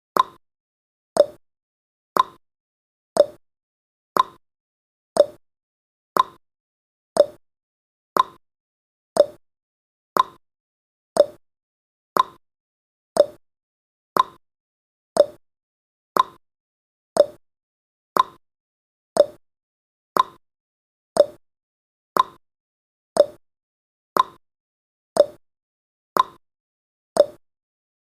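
Clock tick sound effect of a countdown timer: one short, sharp tick each second, alternating slightly higher and lower like a tick-tock.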